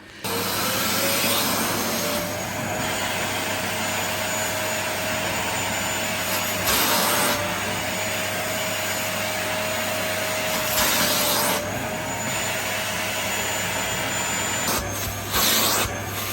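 AGARO ICON 1600 W bagless canister vacuum cleaner switching on, its motor whine rising in pitch for a second or two, then running steadily with a rushing of air. The rushing swells louder twice in the middle and in several short surges near the end.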